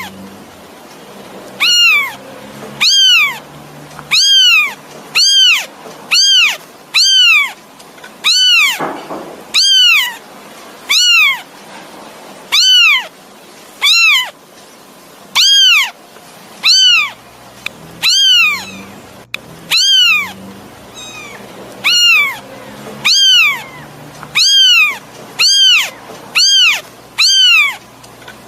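Kitten meowing over and over to call its mother: short, high-pitched meows about one a second, each rising and then falling in pitch.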